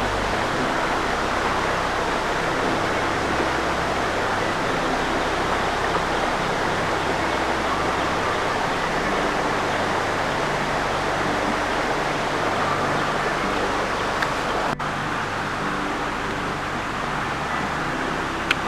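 Waterfall rushing steadily, a loud unbroken roar of falling water, with a brief break about 15 seconds in.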